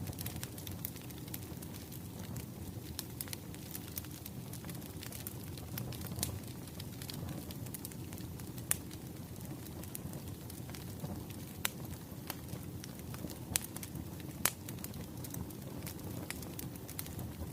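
Wood fire crackling: a steady low rumble with scattered sharp pops and snaps of burning logs.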